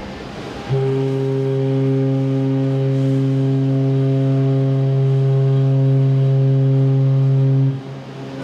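Ship's horn sounding one long, deep, steady blast of about seven seconds, starting just under a second in and cutting off near the end.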